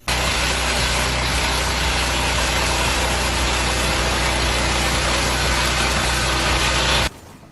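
A motor or machine running steadily with a loud, even noise over a low hum, cutting off abruptly about seven seconds in.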